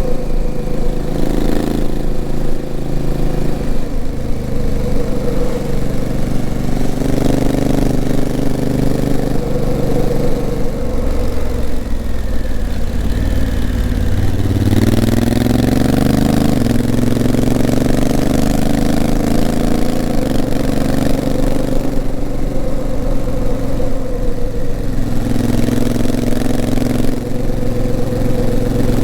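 Honda CRF1000L Africa Twin's 998 cc parallel-twin engine pulling the bike uphill, with wind rushing past. The engine note falls away around 11 seconds in, then rises sharply from about 15 seconds in as the bike accelerates again.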